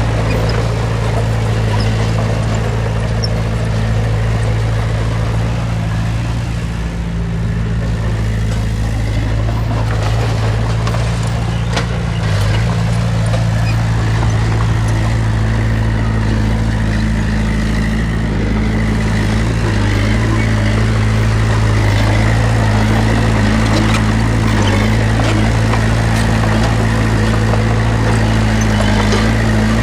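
Diesel engine of heavy earthmoving machinery running steadily with a low drone, and a few faint clanks about a third of the way in.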